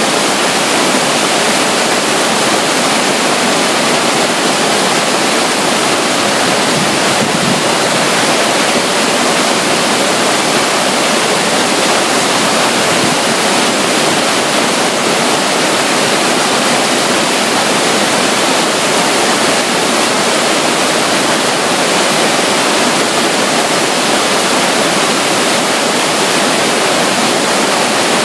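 Loud, steady rush of running water from a tiny flow of water spilling along the side of a river near a waterfall, unbroken and unchanging.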